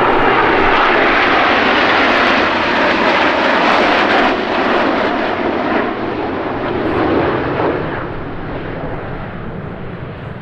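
Airplane engine noise as a plane passes, loud at first and fading gradually over the last few seconds.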